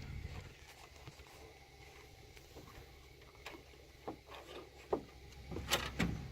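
Faint scattered clicks and taps of hands handling a cartridge oil filter and its housing cap while refitting them, over a low steady hum.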